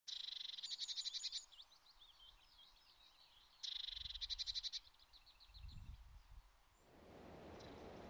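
A songbird singing two loud, high trilling phrases a few seconds apart, each trailing off into softer twittering. Low rumbles come in the middle, and a steady hiss takes over near the end.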